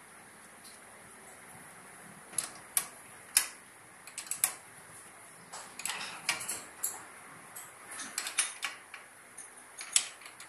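Irregular light metallic clicks and taps of tools and small parts being handled while a diesel fuel pump is worked on, some coming in quick clusters.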